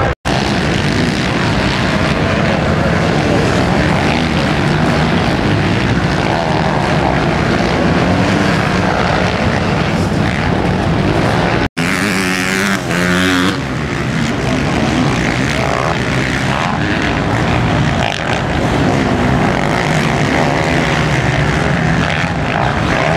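Motocross bikes racing, their engines running and revving continuously. The sound drops out for an instant twice, near the start and about halfway through. Just after the second dropout, one bike's engine note rises and falls clearly for a second or two.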